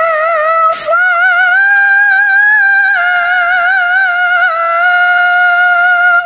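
A reciter chanting the Quran in tilawah (qiroah) style, holding a very high note with a wavering, ornamented line. There is a short break about a second in, then the note climbs a little and is held on until it stops near the end.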